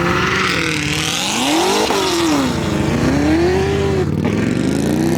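A car engine revving hard, its pitch climbing and falling several times as the driver works the throttle.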